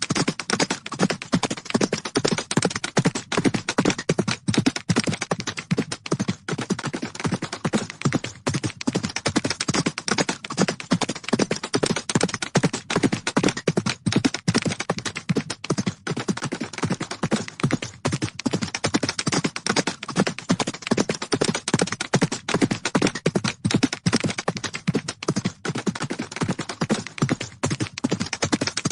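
Horses galloping: a rapid, uneven, unbroken drumming of hoofbeats.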